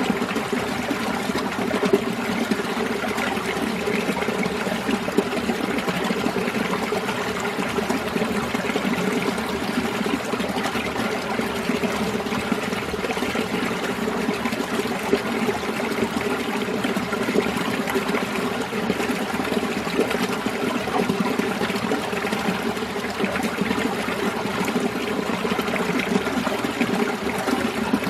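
Winter mountain valley stream flowing, a steady, unbroken rush of running water.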